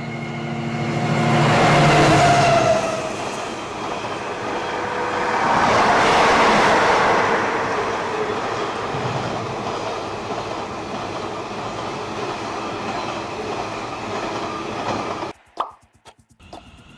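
A train passing by, with a steady engine note at first, two loud swells about two and six seconds in, then a steady rumble of the train running past that cuts off suddenly near the end.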